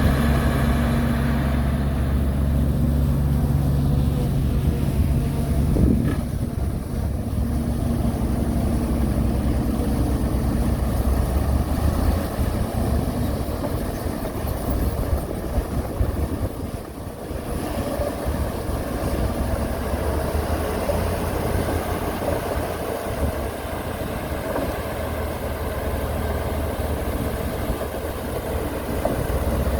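Diesel engine of a heavy earthmoving machine running steadily at a low, even pitch, with a single knock about six seconds in and a brief dip in level around seventeen seconds.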